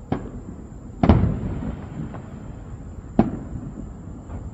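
Aerial fireworks shells bursting: four booms. The loudest comes about a second in and rumbles on for a moment afterwards.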